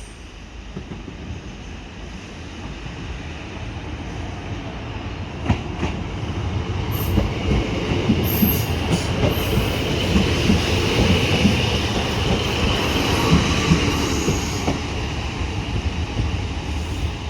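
A train running past close by, growing louder over the first ten seconds, with the rhythmic clicks of its wheels over rail joints and a hiss from wheels and rails.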